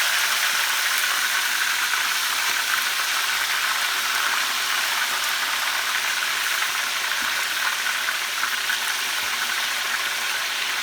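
Chicken wings deep-frying in a pot of hot oil: a steady, even sizzle.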